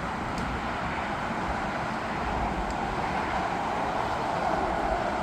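Steady roar of distant engine noise, growing a little louder near the end.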